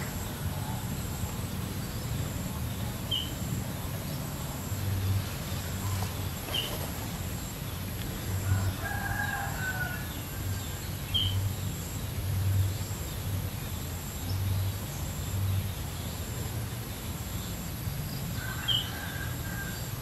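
Outdoor ambience of birds calling over a low rumble: short high chirps every few seconds, and a longer drawn-out call about eight seconds in and again near the end.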